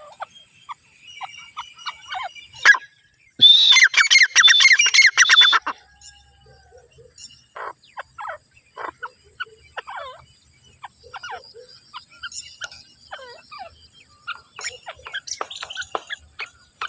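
Grey francolin calling: a loud run of quick, repeated shrill notes lasting about two seconds a few seconds in, set among scattered quieter chirps and calls.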